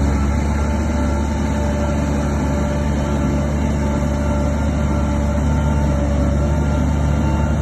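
Bulldozer's diesel engine running steadily under load, a deep rumble with a thin steady whine over it.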